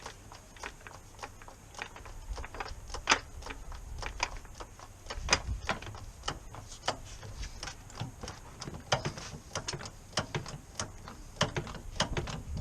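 Irregular sharp clicks and light metallic knocks of hand tools working on a car, some in quick runs, over a low rumble that grows louder about five seconds in.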